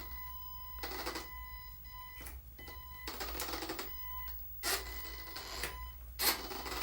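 Radio-controlled Huina dump truck converted to hydraulics, under test: a steady high electric whine from its motor drive runs under several short rasping bursts of motor and gear noise as the truck is worked.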